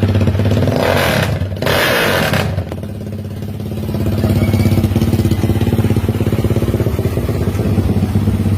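Small motorcycle engine idling with a lumpy, pulsing beat through an open Aun titanium aftermarket exhaust pipe. About a second in there is a short burst of hiss-like noise lasting a second or so.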